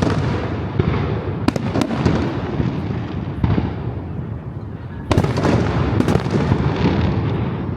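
Aerial fireworks bursting in rapid succession: a continuous rumble of booms with sharp cracks breaking through, the loudest volley about five seconds in.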